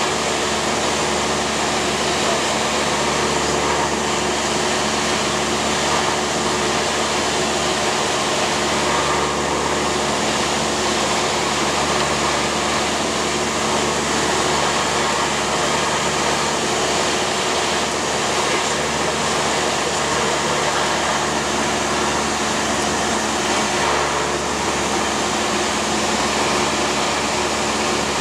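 Cessna 172's piston engine and propeller droning steadily in flight, heard inside the cabin, with no change in pitch or level.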